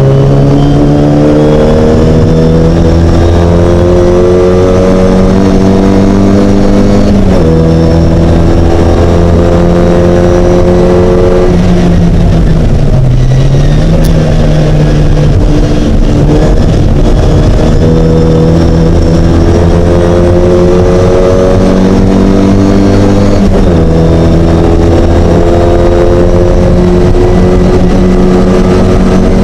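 Mini race car engine running hard under load, its note climbing steadily through the revs. It drops sharply on upshifts about 7 seconds in and again near the end, and there is a lift and dip in the revs around the middle.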